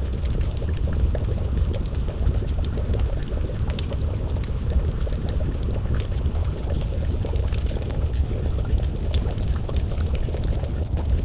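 Stew bubbling as it simmers in a pot over an open fire, with scattered crackles and pops from the burning wood over a steady low rumble.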